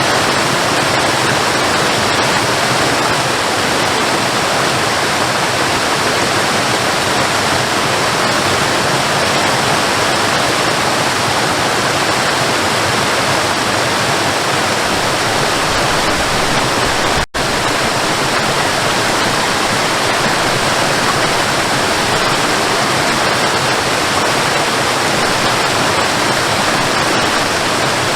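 Waterfall: a steady, even rush of falling water, cut by a momentary break in the sound about two-thirds of the way through.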